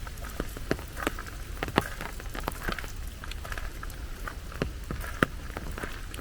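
Rain falling, with many sharp, irregular drop ticks over a steady patter.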